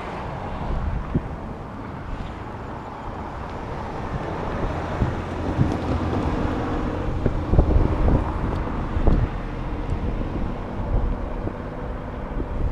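Wind buffeting the microphone over a low vehicle rumble, with a steady engine hum coming in about halfway through.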